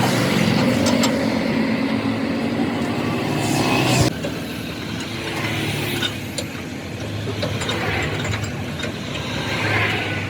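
Mechanical work sounds: a machine running steadily, a sharp metal clank about four seconds in, then lighter clicking and ratcheting.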